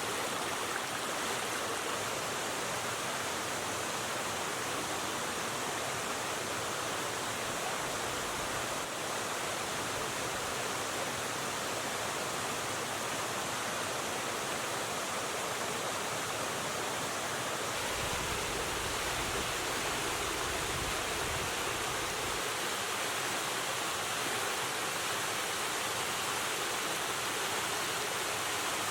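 River water rushing in a steady, even hiss. A brief low rumble comes and goes about two-thirds of the way through.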